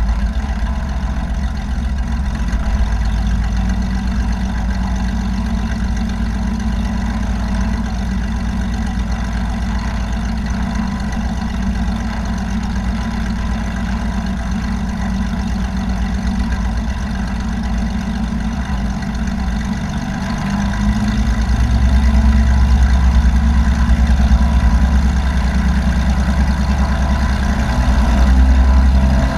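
Light aircraft's piston engine and propeller running in a steady drone, growing louder for a few seconds about two-thirds of the way through and again near the end as power is changed.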